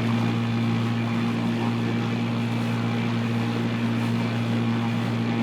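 A steady engine drone that holds one even pitch, with no rise or fall.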